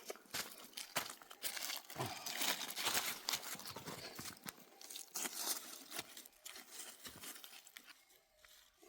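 Irregular crunching and rustling, with many sharp clicks, as material is handled or worked. It fades down near the end.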